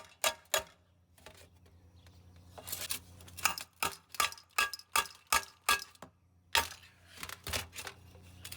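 Ratchet wrench clicking as bolts are turned out of a small lawnmower engine, in three runs of sharp metallic clicks, about three to four a second, with brief pauses between them. A faint steady low hum lies underneath.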